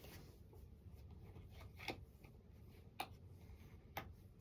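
Near silence: faint room tone with three light ticks about a second apart.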